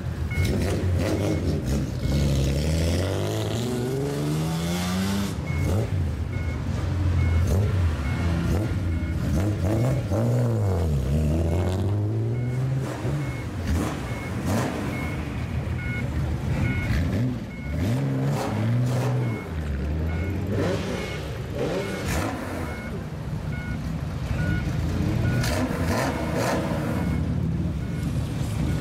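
Old car engines revving up and down again and again as the cars pull away slowly, with blips of throttle rising and falling in pitch. A repeating electronic beep sounds faintly underneath.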